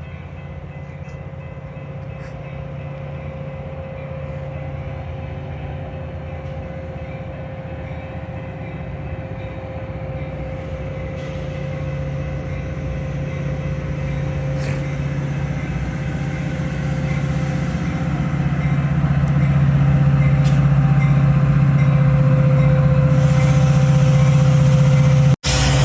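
Metra diesel locomotive engine running with a steady low drone, growing steadily louder and then holding at full loudness for the last several seconds.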